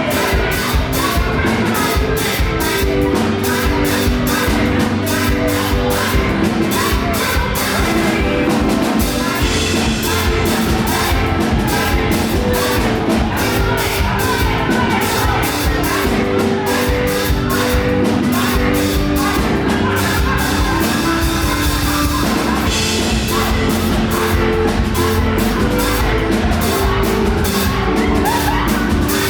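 Live up-tempo gospel praise music: a band with drum kit plays a fast beat under sustained keyboard or organ chords, with voices singing and shouting along.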